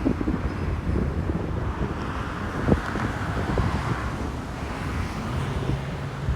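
Wind buffeting the microphone over the wash of ocean surf. A steady low engine hum comes in near the end, and there is a single sharp tick about halfway through.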